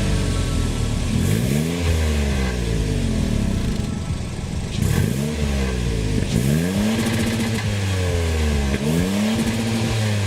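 Car engine revved several times in a row, each rev rising in pitch and falling back to idle.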